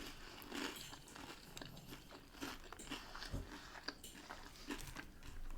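Chewing of crunchy battered fish and chips close to the microphone: a scatter of small, irregular crunches and mouth clicks.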